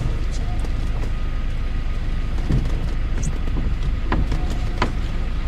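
Audi quattro sedan's 2.8 petrol engine running steadily at low speed as the car creeps along a muddy rutted track, with a few short knocks about halfway through and near the end.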